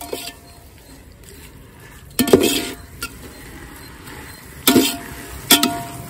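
Metal utensils clanking against a cooking pot three times, with a short metallic ring; the first clank, a little over two seconds in, is the loudest.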